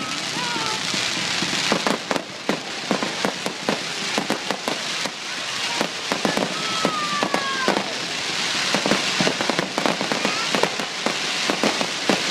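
Fireworks show: a rapid, irregular barrage of bangs and crackles over a steady hiss of burning, with a whistle-like tone gliding for about a second near the middle.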